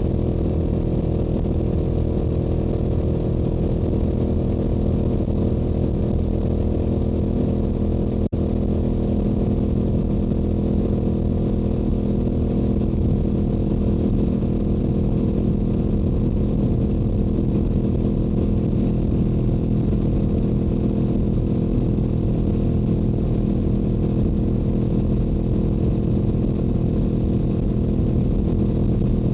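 Stock Yamaha YZF-R7's 689 cc parallel-twin engine and exhaust running steadily at highway cruising speed, a constant drone with no gear changes. It cuts out for a split second about eight seconds in.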